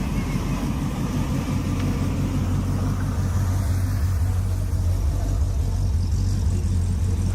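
A car engine running at a steady, low idle close by.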